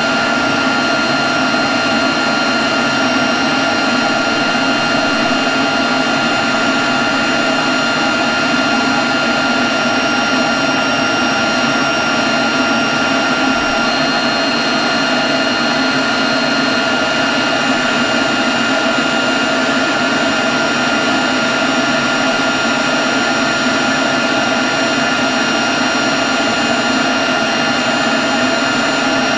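Leaf blower running steadily at constant speed: a dense rush of air with a steady high whine over it.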